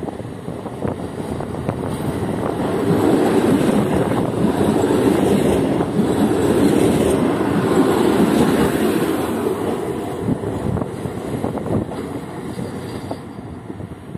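Regional passenger multiple-unit train passing close by on the station track, its wheels rumbling and clicking over the rails. The sound builds as it approaches, is loudest about a third of the way in through the middle, then fades as it moves away.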